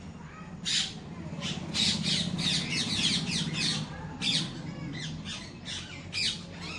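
Birds calling: a rapid run of sharp chirps, each falling in pitch, about three a second with short gaps, over a low steady background hum.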